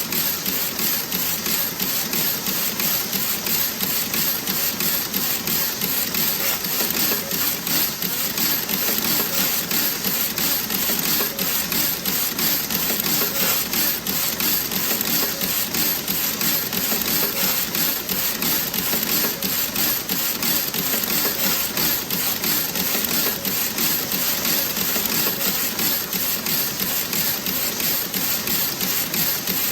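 Toe-sock knitting machine running: a steady, rapid mechanical clatter of dense clicking.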